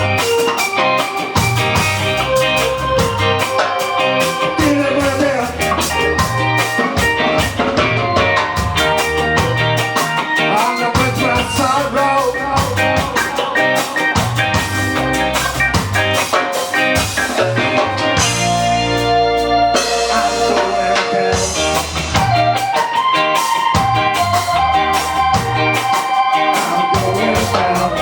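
Live ska band playing: electric guitar and drum kit in a steady beat. About two-thirds of the way through, the drums drop out for a few seconds under a held chord, then the beat comes back.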